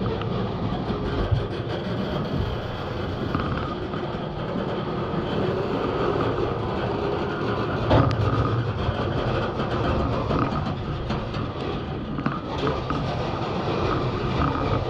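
Freight cars of a slow-moving manifest train rolling past, their wheels clicking and knocking over the rail joints with a steady rumble and faint squealing tones. One louder knock comes about eight seconds in.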